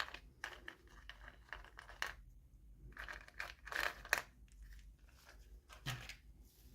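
Toy packaging being opened by hand: irregular crinkling and tearing of a plastic or foil wrapper with small clicks and taps, busiest about three to four seconds in.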